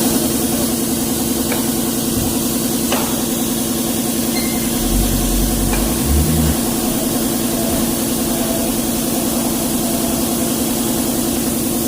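Hino truck's diesel engine idling steadily with an even pulse, with a brief deeper rumble about five seconds in.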